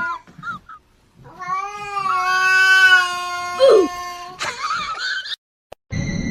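A domestic cat yowling: a few short chirps, then one long drawn-out call held for about three seconds, followed by a brief scuffle of noise. Near the end it cuts off abruptly and steady electronic tones begin.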